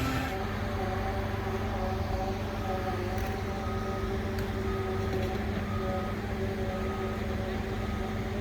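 Diesel engine of heavy construction machinery running steadily. From about two and a half seconds in, a warning beeper sounds roughly once a second.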